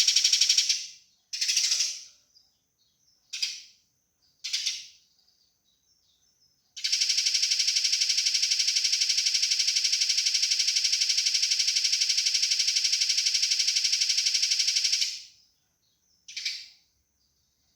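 Eurasian tree sparrow giving its agitated fighting chatter: a run of rapid, closely spaced rattling notes that stops about a second in, then three short separate calls. A long, dense, fast rattle follows for about eight seconds, and one more short call comes near the end.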